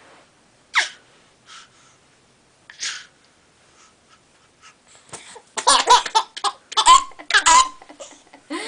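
A baby laughing: a sharp squeal and a short giggle, then about five seconds in a run of rapid, loud laughs.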